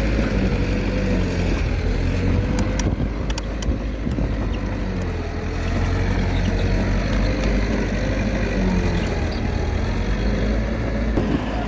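Komatsu D21A small bulldozer's diesel engine running steadily under load, its pitch rising and falling a little as it works, with a few brief clicks about three seconds in.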